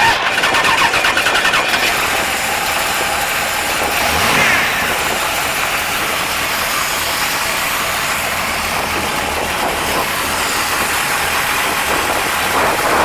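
AMC 401 cubic-inch V8 of a 1970 AMC AMX starting up and running, with a short rev about four seconds in, then idling steadily and revving again near the end.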